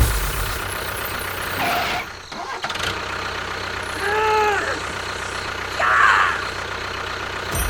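Engine running steadily with a low rumble that briefly drops away about two seconds in. About four seconds in there is a short voice-like sound that rises and falls in pitch, and a brief higher burst comes around six seconds.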